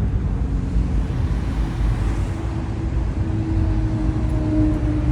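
Car engines running, a steady low rumble, with a steady drone coming in about a second and a half in and growing louder near the end.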